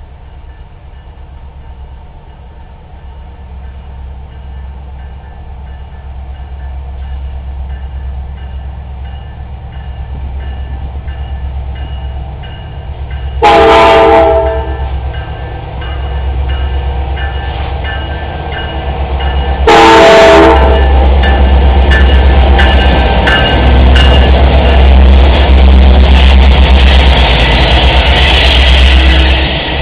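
Diesel freight train approaching, its low engine rumble building steadily, with two short horn blasts about six seconds apart. It then passes loud, with the clatter of wheels over the rails.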